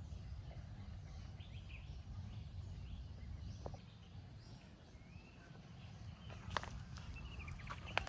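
Small birds chirping now and then in forest, over a steady low rumble. Near the end come a few sharp clicks, like footsteps on dry leaves or twigs.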